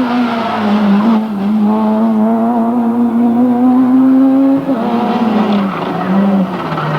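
Rally car engine at high revs, held steady for several seconds, then the revs drop about two-thirds in and fall in short steps toward the end as the driver lifts off.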